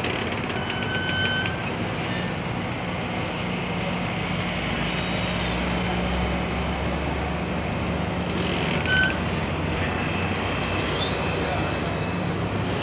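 Amtrak passenger train moving past with a steady diesel locomotive rumble. Several high-pitched metallic wheel squeals rise and hold over it, the longest near the end.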